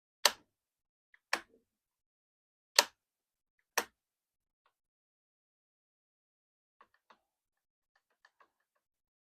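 Stihl 034 chainsaw's switch lever being flicked back and forth, four sharp clicks a second or so apart, then a few faint small clicks near the end. The lever has been sticking and is now moving more freely after lubrication.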